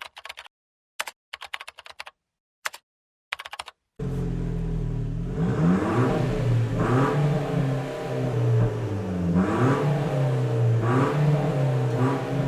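For the first four seconds, short bursts of clicking like typing, with dead silence between them. Then the Opel Astra GTS's 1.4 turbo four-cylinder starts up through its tuned exhaust, idling steadily and blipped several times, each rev rising and falling back to idle.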